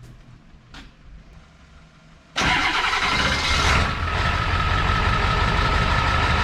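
Diesel pickup truck engine cold-starting: it catches suddenly about two and a half seconds in, runs higher for about a second, then settles into a steady idle. A new glow plug relay lets it start right up in the cold.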